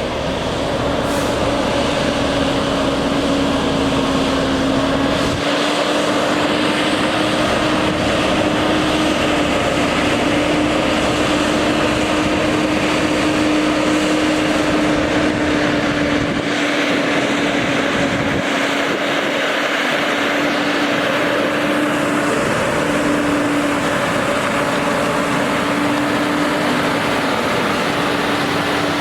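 Diesel engine of a 2014 Freightliner Coronado water truck running steadily under a broad rushing noise. Its pitch steps up slightly near the start and again about five seconds in.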